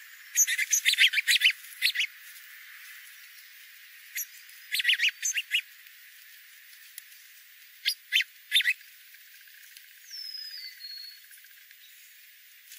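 Birds calling: three bursts of quick, sharp, high chattering notes, then a faint falling whistle near the end.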